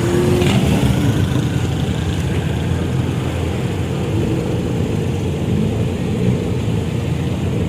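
Car engines running at a petrol pump, a steady low rumble.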